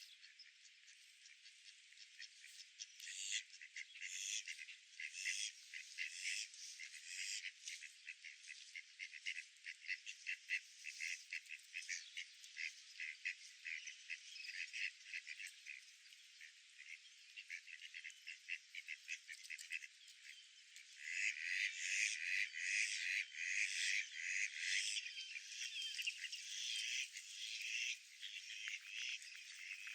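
Ducks quacking in quick, overlapping runs of short calls, with a louder burst of calls about two-thirds of the way through.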